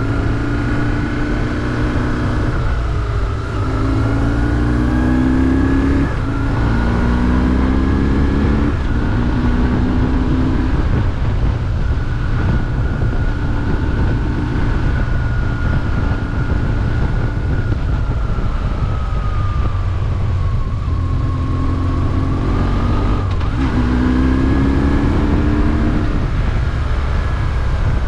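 BMW R1150GS's boxer twin engine pulling up through the gears: its pitch climbs and drops back at each shift, four times in quick succession, then holds steadier for about ten seconds before two more shifts near the end.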